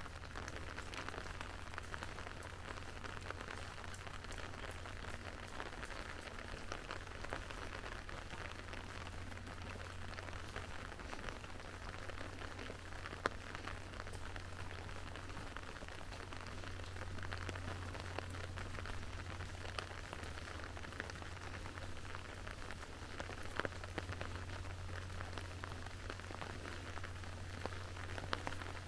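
Steady rain falling and pattering on hard surfaces: a dense, even patter of many small drops, with a steady low hum underneath.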